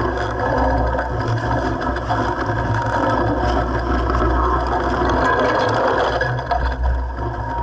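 Mountain bike rattling and chattering over a rough dirt trail on a downhill run, with heavy wind rumble on the microphone.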